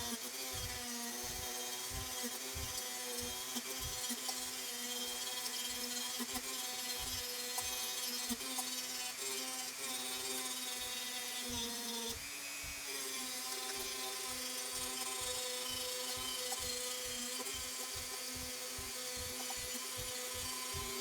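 Handheld Dremel rotary tool running steadily, grinding and cleaning a metal contact surface in a lawn mower's engine-kill circuit to bring down its high resistance. Its pitch dips and shifts briefly about twelve seconds in.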